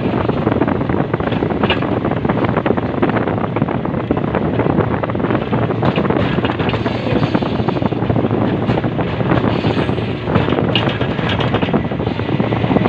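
Ballast regulating machine working on railway track: a loud, steady mechanical noise with constant small clicks and rattles through it.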